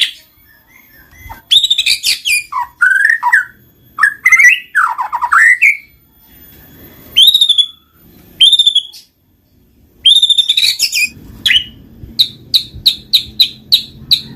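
White-rumped shama (murai batu) singing: varied phrases of rich, sliding whistled notes separated by short pauses, ending in a quick run of short repeated notes, about three a second.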